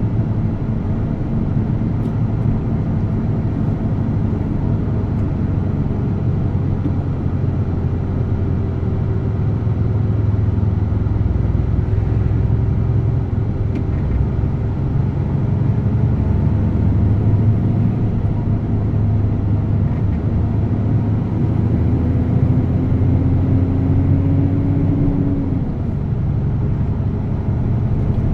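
DAF truck's diesel engine running under way, a steady low drone; in the second half the engine note climbs slowly and then drops off sharply a few seconds before the end.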